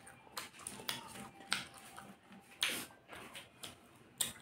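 Close-up mouth sounds of a person chewing tandoori chicken: a run of irregular clicks and smacks.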